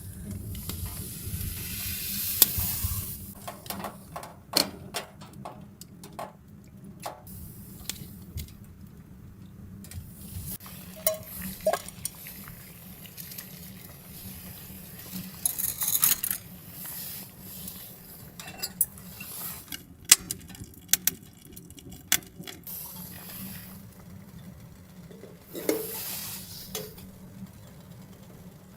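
Cooking in a pan: a metal utensil stirring, scraping and clinking against the pot with scattered sharp knocks, over a soft sizzle that comes and goes.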